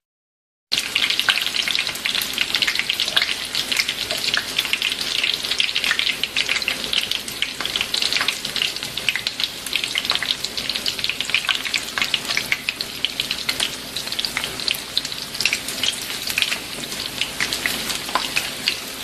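Battered zucchini flowers deep-frying in hot oil in a skillet: a steady, dense sizzle full of fine crackles, coming in after a split second of silence at the start.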